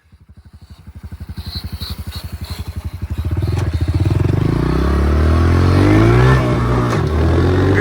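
Dirt bike engine approaching, its pulsing note building steadily in level, then running loud and revving up close with the pitch rising from about three seconds in.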